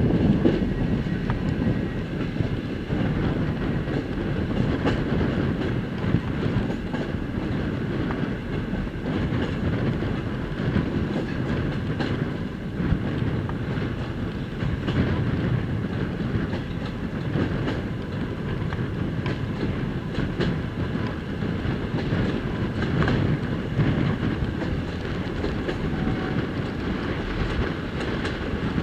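Passenger train running along the line, heard from a carriage window: a steady rumble of wheels on rails, with occasional clicks from rail joints.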